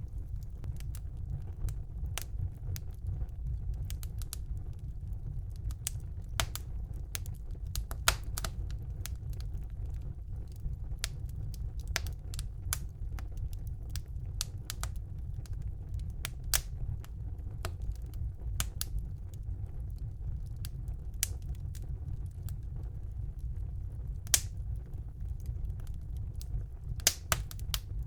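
Wood fire burning in a fireplace: irregular sharp crackles and pops over a steady low rumble of the flames, with a few louder pops, several close together near the end.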